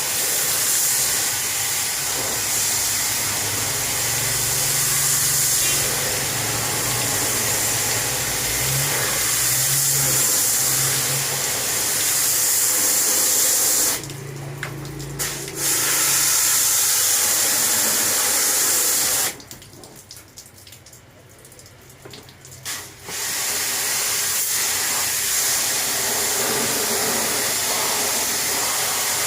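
Steady hiss of a water spray jet washing an air conditioner. It drops off for about two seconds near the middle and cuts out for about three seconds a little later.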